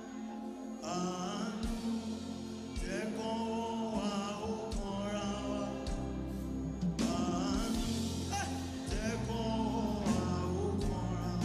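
Live gospel worship music: singing over a band, with the bass coming in about a second in.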